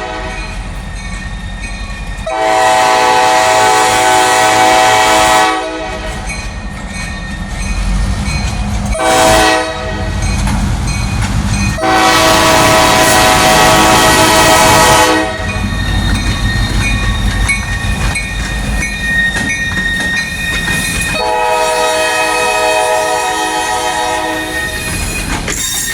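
Freight locomotive's air horn blowing a crossing signal: a long blast, a short one and another long one, with a further, quieter long blast near the end. Under it runs the steady rumble of the engine and the wheels on the rails.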